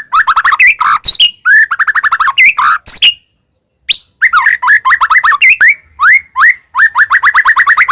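White-rumped shama (murai batu) singing loud, fast phrases of repeated rising notes and trills. There is a break of about a second some three seconds in, then the rapid phrases start again.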